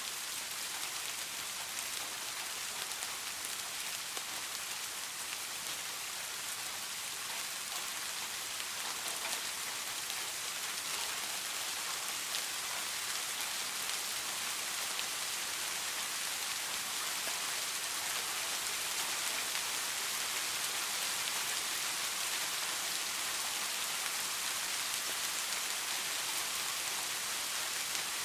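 Soft rain falling steadily: a dense, even hiss of drops with faint single-drop ticks scattered through it.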